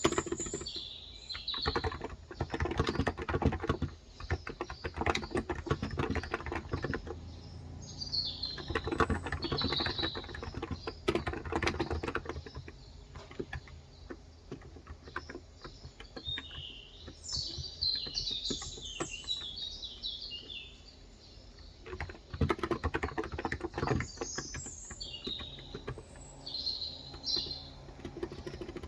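Typing in bursts on a Cox Endeavour electro-capacitive (Topre-style) 35 g tenkeyless keyboard, a quick run of key presses with pauses between runs. Small birds chirp in short high phrases in between and over the typing.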